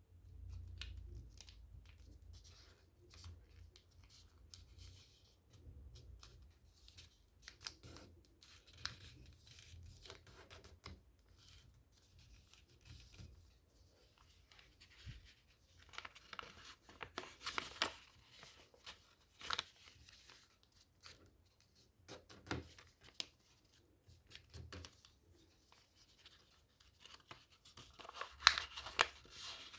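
Paper being folded and creased by hand: scattered crisp ticks and short rustles, with louder bursts of crinkling about halfway through and again near the end.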